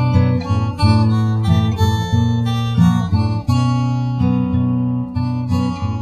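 Instrumental passage of a song: strummed acoustic guitar.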